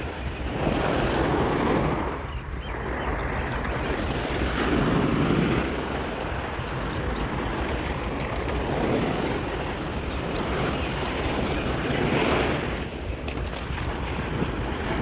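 Outdoor wind and ocean surf: a steady rush of noise that swells and eases every few seconds, with wind buffeting the microphone as a constant low rumble.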